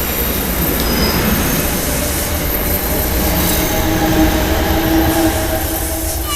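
Commuter train rolling slowly alongside the platform: a steady rumble of wheels on rails with thin, steady squealing tones from wheels and brakes that grow stronger in the second half.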